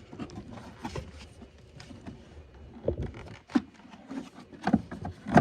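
Irregular clicks, knocks and scrapes of hand tools and car parts being handled and moved about, with a few sharper knocks in the second half.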